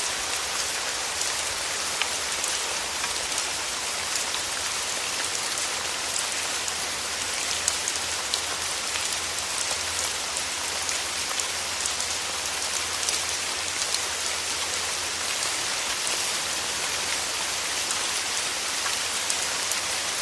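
Steady rain falling: an even hiss with scattered sharp hits of single drops.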